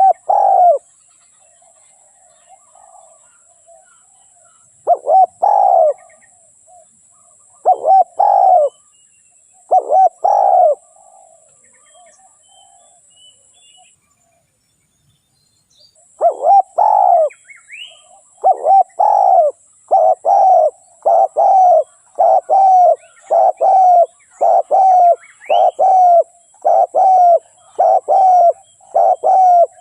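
Spotted dove cooing: low coos in pairs every few seconds, then after a short pause a long, even run of coos, about three every two seconds.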